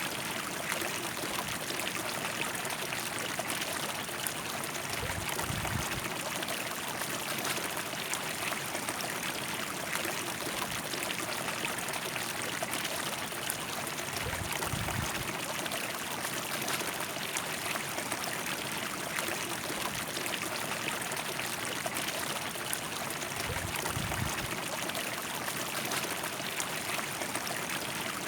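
River flowing, a steady rush of water, with three brief low rumbles about nine seconds apart.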